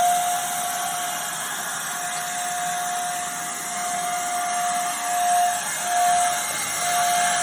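Kärcher WD2 wet and dry vacuum cleaner running at speed: a steady motor whine over a rush of air, the whine briefly breaking up twice near the end. The owner says the vacuum malfunctioned after a few minutes of wet use, though it still sounds as though it is sucking.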